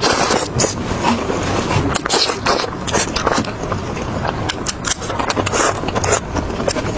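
Close-miked chewing and crunching of food, with dense irregular crisp crackles and wet mouth noises.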